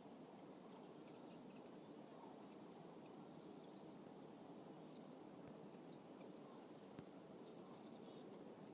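Faint steady outdoor hush with a few thin, high-pitched bird chirps scattered through it, including a quick run of chirps about six seconds in.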